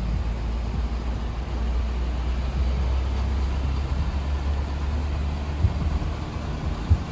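A car driving, heard from inside the cabin: a steady low engine and road rumble, with two short knocks near the end.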